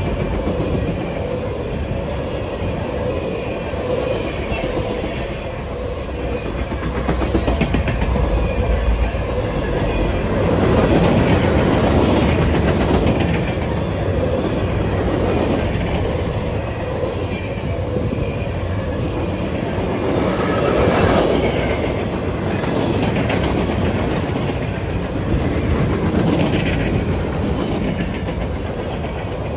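Freight train of boxcars, tank cars and covered hoppers rolling steadily past at close range: a continuous rumble of the cars with the clickety-clack of wheels over the rail joints, swelling and easing as the cars go by.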